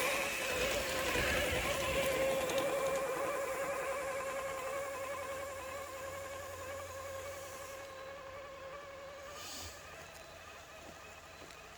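Electric drive motor and geartrain of a radio-controlled rock crawler whining steadily as the truck drives, fading away and cutting out about nine and a half seconds in.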